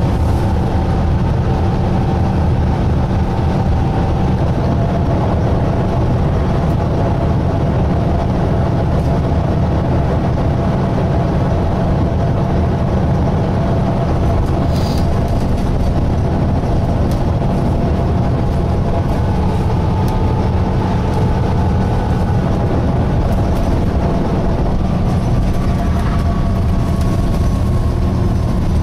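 Volvo B9TL double-decker bus heard from inside the saloon while under way: a steady low engine and road rumble with faint whining tones above it, and a single click about halfway through.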